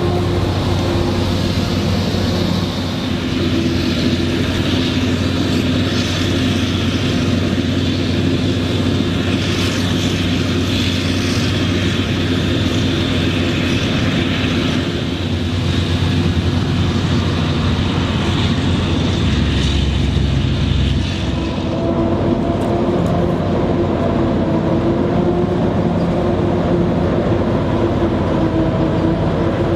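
Heavy diesel farm machinery running steadily while chopping maize: the forage harvester and tractors working. About two-thirds of the way in the sound changes: the high hiss drops away and a steadier engine hum remains.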